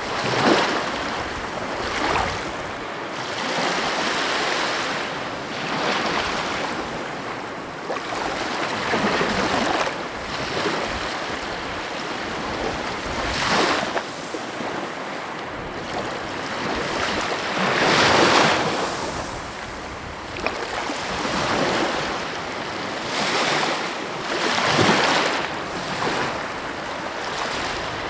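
Sea waves breaking and washing on the shore, the surf swelling and easing every few seconds, with wind on the microphone.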